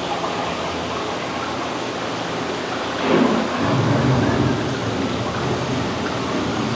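A thunderstorm sound effect: steady rain with a low rumble of thunder that swells about three seconds in and rolls on for a few seconds.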